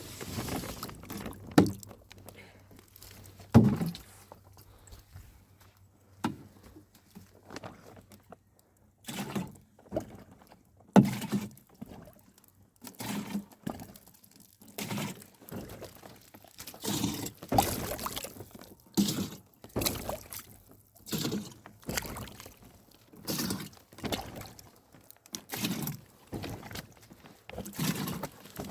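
Rainwater being scooped and thrown or poured out in repeated strokes, each with a splash and a dull thud, irregular at first and then settling into about one stroke a second.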